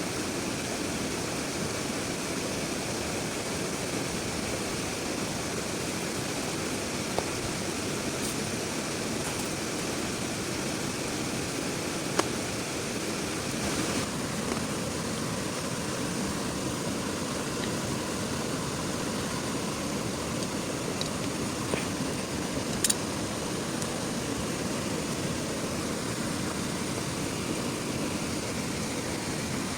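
Heavy rain falling steadily as an even hiss, with a few sharp ticks or taps scattered through it.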